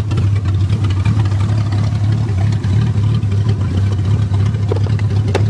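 1982 Toyota Cressida's engine idling steadily after being restarted from a stall.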